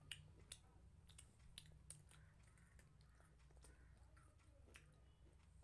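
Faint chewing of a chocolate-filled cookie, with scattered soft crisp clicks over a low steady hum.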